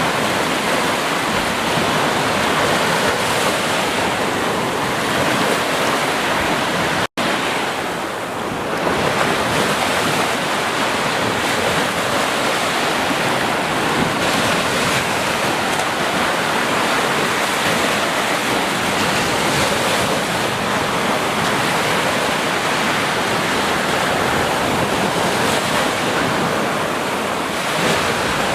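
Ocean surf washing onto a beach in a steady, dense rush that swells and eases slightly, with a momentary dropout to silence about seven seconds in.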